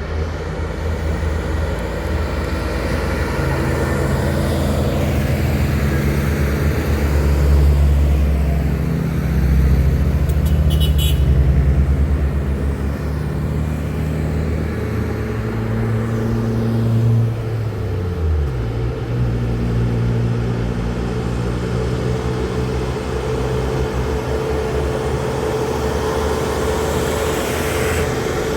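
Heavy truck's diesel engine working under load, rising in pitch and loudness for several seconds in the first half, then falling in pitch about two-thirds through and settling to a steady run.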